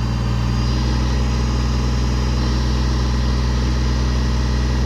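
Kubota tractor's diesel engine running at a steady speed while the backhoe is worked.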